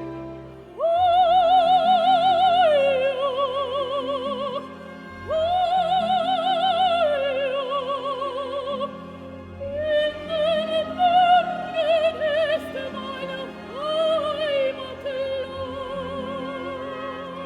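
Operatic soprano singing with orchestra: two long high notes held with wide vibrato, each stepping down a tone partway through. These are followed by a quicker run of shorter notes over sustained orchestral chords.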